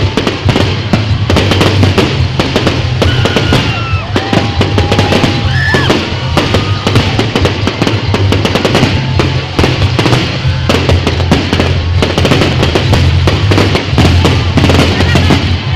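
Aerial fireworks display going off in a rapid, continuous barrage of bangs and crackling, with music playing along.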